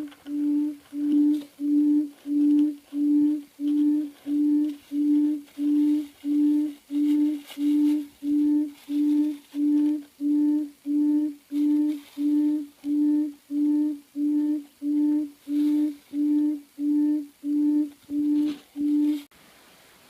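A recorded low hooting bird call played from a small TF-card speaker as a lure: short notes of one steady pitch, repeated a little under two a second, cutting off abruptly near the end.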